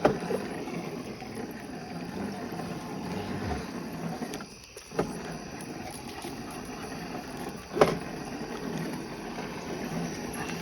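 Steady rustling noise from walking with the phone, with a few sharp knocks: one at the start, one about five seconds in, and a louder one near eight seconds.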